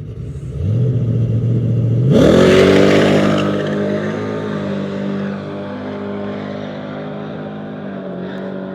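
Truck engine held at a steady raised speed, then launching hard about two seconds in: the pitch jumps sharply and the engine runs loud and steady under full throttle as the truck pulls away, slowly fading.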